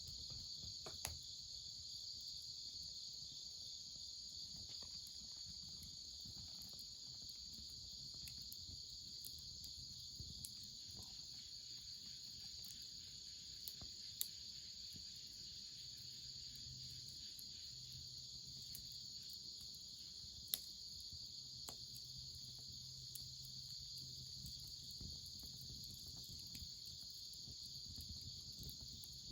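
Faint, steady high chirring of a chorus of night insects, with a few sharp pops from burning firewood in a bonfire, the loudest about 20 seconds in.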